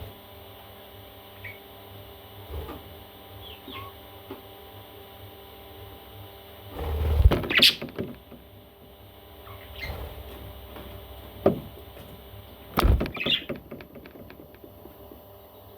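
Parrot chicks giving a few short, scattered chirps, with louder rustling and knocking from handling or movement about seven seconds in and again near thirteen seconds.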